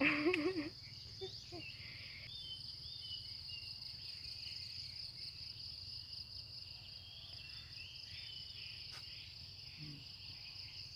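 Steady, high-pitched chorus of insects such as crickets, with birds chirping faintly in the background in a rubber plantation at dawn.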